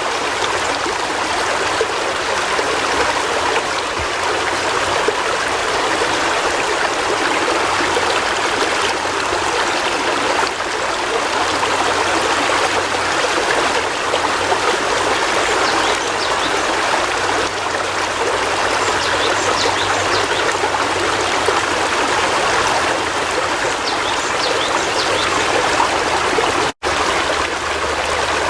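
River water flowing steadily over rocks, a continuous rushing and trickling. There is a brief break in the sound about three-quarters of a second before the end.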